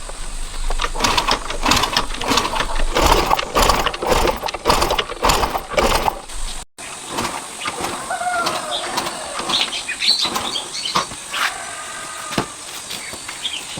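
Rapid mechanical clatter with a low rumble for about the first half, cut off abruptly. Then scattered bird chirps over a quieter rural background.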